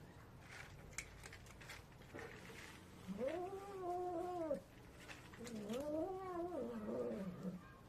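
Cat giving two long, drawn-out meows starting about three seconds in, the second one longer and wavering in pitch; a few faint clicks come before them.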